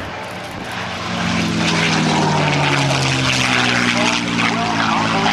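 P-51 Mustang's V12 engine and propeller on a low, fast flyby. The sound swells about a second in, and the engine note falls gradually in pitch as the fighter passes.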